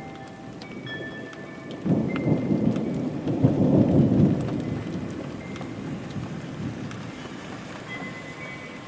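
Steady rain falling, with a thunderclap that breaks suddenly about two seconds in, rumbles loudest for a couple of seconds, then rolls away.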